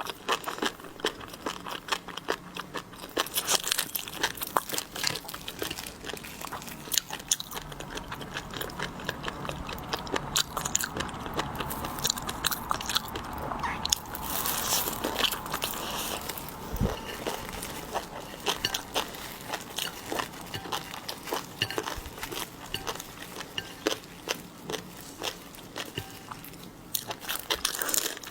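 Close-miked eating of seafood: biting, crunching and chewing, with dense crackles and clicks throughout.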